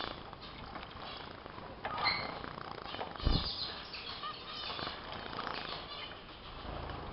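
Small cage finches (zebra, Bengalese and strawberry finches) giving short high chirps and fluttering their wings as they bathe under a shower of water. There is a single low thump about three seconds in.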